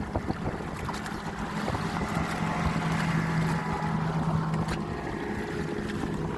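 Steady low hum of an ePropulsion Spirit 1.0 Plus electric outboard driving a kayak, with water washing and wind noise on the microphone.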